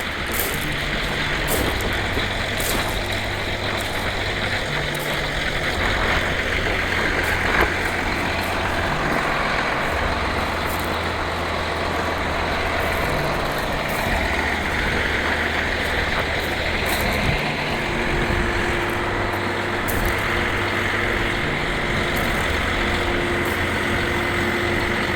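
Harley-Davidson motorcycle on the move: engine running under a loud, steady rush of wind noise.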